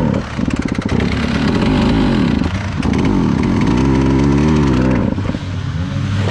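KTM 300 EXC two-stroke enduro engine revving up and down through a muddy water crossing, holding steadier revs for a second or so in the middle, with water churning and splashing around the bike.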